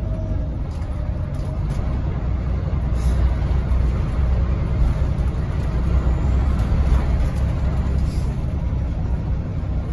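Scania OmniLink articulated bus under way, heard from inside the cabin: a steady low engine and road rumble.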